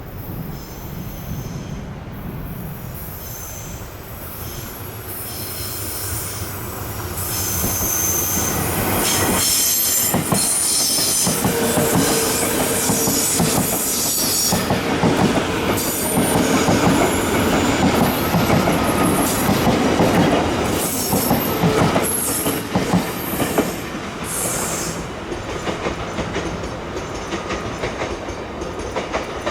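Taroko Express tilting electric train running past, growing louder as it nears, with high wheel squeal and wheels clicking over rail joints through the loud passage, then fading near the end.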